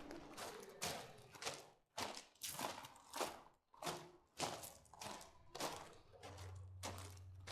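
Footsteps walking at a steady pace, about one and a half steps a second, each a short scuffing crunch. A low steady hum joins about six seconds in.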